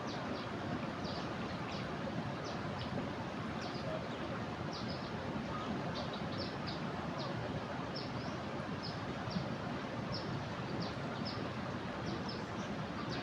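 Steady rush of a flooded river's fast-flowing water, with a bird repeating many short high chirps over it.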